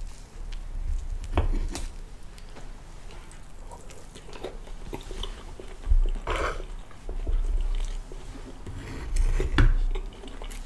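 Close-miked chewing of soft pancake, with a few sharp clicks and scrapes of a knife and fork cutting the pancake stack.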